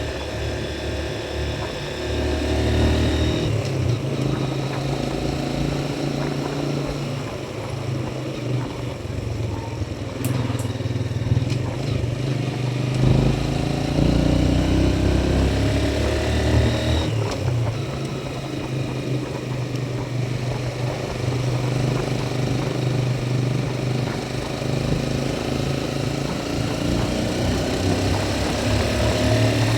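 Motorcycle engine running while being ridden, its note stepping up and down several times as the throttle and speed change.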